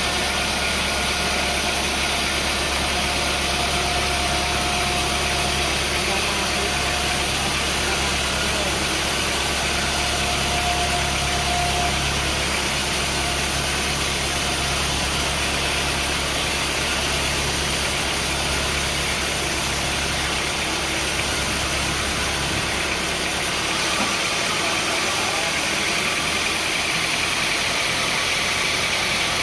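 An engine running steadily, with a constant mechanical noise; a low hum beneath it drops away about four-fifths of the way through.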